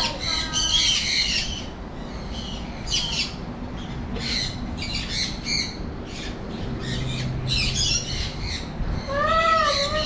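Birds squawking: short harsh calls repeated irregularly, about once a second.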